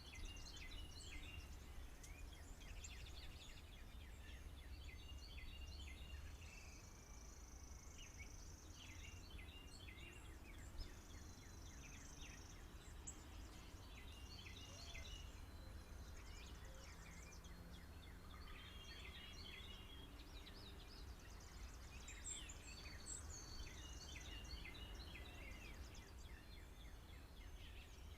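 Several songbirds singing and chirping at once, faint: a busy mix of short chirps and calls, with longer high trills now and then. Underneath runs a steady low rumble.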